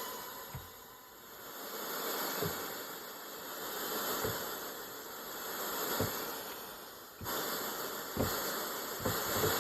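Yamaha DX7 FM synthesizer patch from a VRC-105 cartridge playing a hissing, breath-like noise effect. It swells and fades in waves about every two seconds, with soft low thumps.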